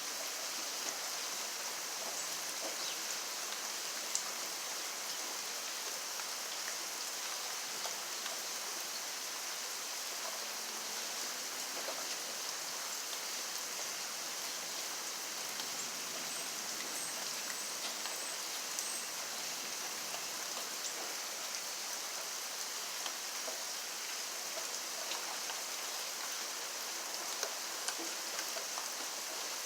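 Steady rainfall, a constant hiss with scattered sharper drop ticks.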